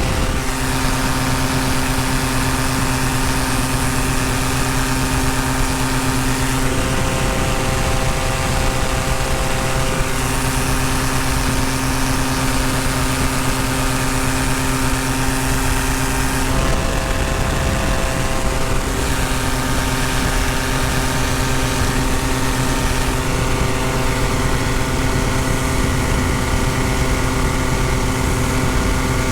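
Tandem paramotor's engine and propeller running steadily in flight, the pitch of the engine note shifting slightly a few times.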